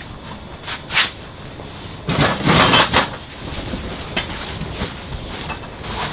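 Several sharp knocks and clicks of objects being handled, with a louder scraping clatter lasting about a second, about two seconds in.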